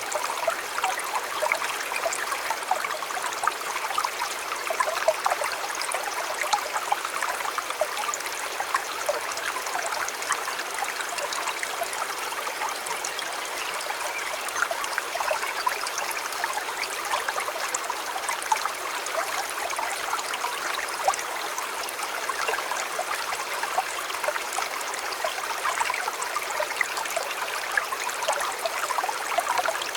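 River water flowing and babbling over stones, a steady splashing rush with many small splashes.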